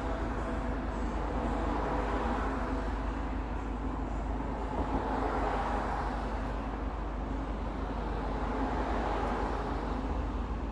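A steady, distant outdoor rumble over a constant low hum, swelling and fading a few times, like far-off traffic or the unexplained sky noise the recording was made to capture.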